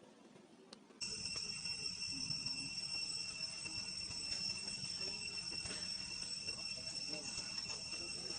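Steady high-pitched droning of insects, starting suddenly about a second in and holding at an even level, over a faint low rumble.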